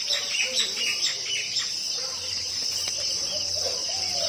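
Insects shrilling in one steady high drone, with small birds chirping over it in the first couple of seconds.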